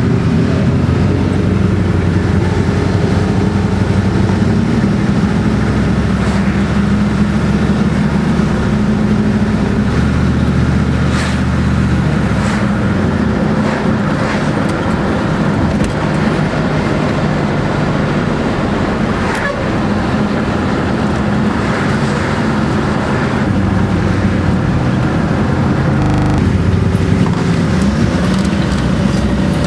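Detroit Diesel 12V-71 two-stroke V12 diesel in an FTF heavy truck running under way. The engine note holds steady, drops about halfway through and changes again near the end.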